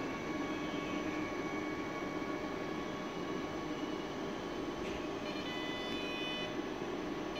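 Passenger train at a station platform, giving a steady low rumble and hum. About five seconds in there is a short click, then a brief high-pitched multi-tone whine.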